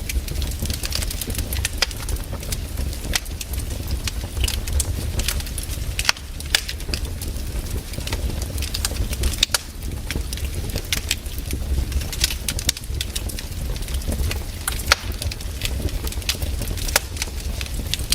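Wood campfire burning: irregular sharp crackles and pops from the burning wood over a steady low rumble.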